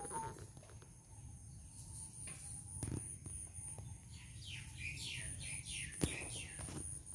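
A bird calling: a quick run of falling notes, about three a second, starting about four seconds in, over a steady high-pitched pulsing trill. A few sharp clicks and knocks fall in between.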